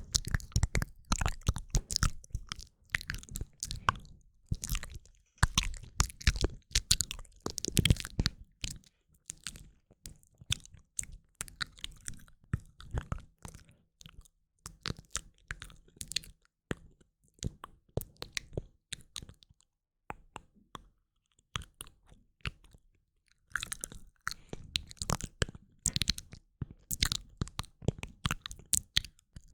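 Close-miked ASMR mouth sounds: rapid runs of clicks and smacks, thinning to a few faint clicks around the middle and picking up again near the end.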